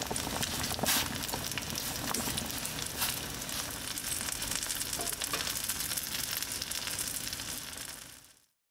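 Food sizzling as it fries in a hot pan, a steady hiss dotted with small crackles, fading out near the end.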